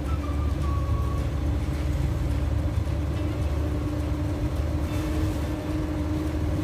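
Suzuki Carry's engine and road noise heard from inside the cab while driving: a steady low rumble with a hum that rises slightly in pitch about four seconds in.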